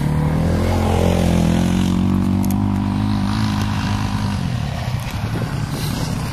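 Quad bike engine running under throttle, its pitch climbing slightly and holding, then dropping about four seconds in to a lower, rougher, uneven note as the throttle comes off.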